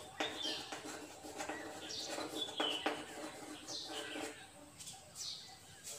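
Small birds chirping, a short high falling chirp about once a second. Under them for the first four seconds is the scratch and tap of chalk writing on a blackboard.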